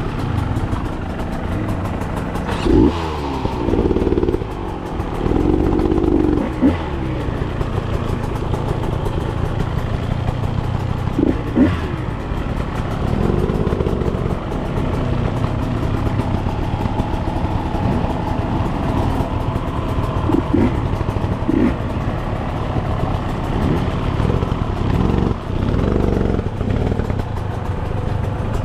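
Dirt bike engine running while being ridden, its revs rising and falling several times.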